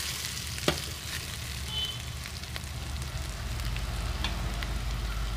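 Chicken, egg and vegetable mixture sizzling in hot oil in an aluminium pot while it is stirred with a spoon, with one sharp knock of the spoon against the pot about a second in.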